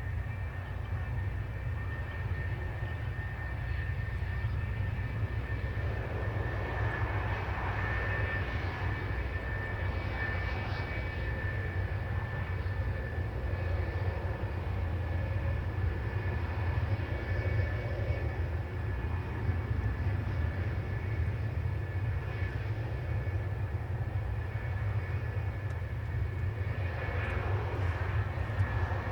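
Jet engine noise from F-4 Phantom fighters' J79 turbojets: a steady low rumble with a high whine, swelling louder a few seconds in and again near the end.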